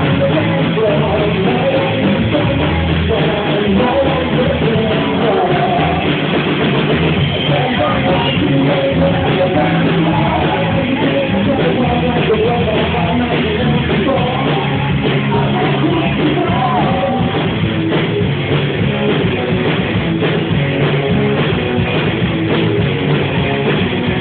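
Live rock band playing loudly, with singing over guitars and drums, recorded at a gig in poor, muffled sound quality.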